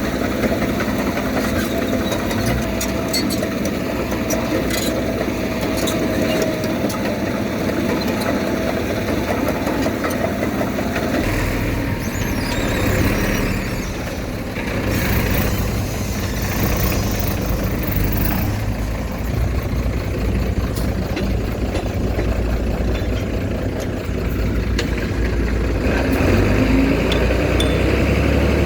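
Heavy diesel earthmoving machinery running steadily, its engine note deepening and getting heavier about eleven seconds in and again near the end.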